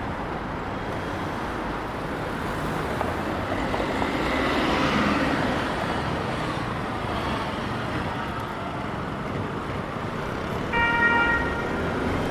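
City street traffic noise, swelling as a vehicle passes about four to five seconds in. Near the end comes a brief, high, steady tone lasting about half a second.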